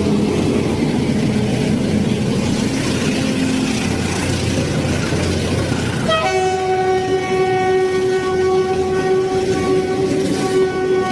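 A rumbling noise, then about six seconds in a horn starts with a quick rise in pitch and holds as one long, steady blast.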